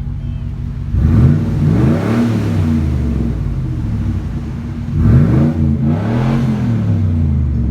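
1996 Chevy Silverado C1500 engine through a straight-piped exhaust (muffler deleted) with new side-exit tips. It idles and is revved twice, about a second in and again about five seconds in, each rev rising and then falling back to idle.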